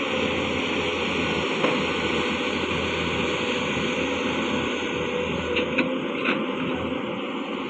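A heavy vehicle's engine running steadily, with a few short clatters about six seconds in.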